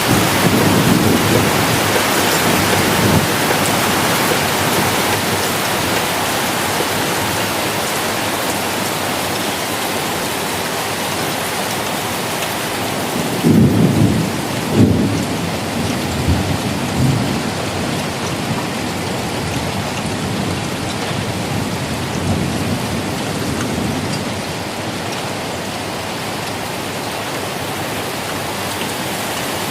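Thunderstorm: steady rain falls throughout as thunder rumbles away in the first few seconds. About halfway through come two sharp thunderclaps, then a rumble that dies down over several seconds, leaving rain alone.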